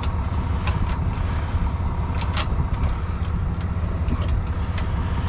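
Heavy truck engine idling with a steady low rumble, with a few sharp metallic clinks of tow chain being handled.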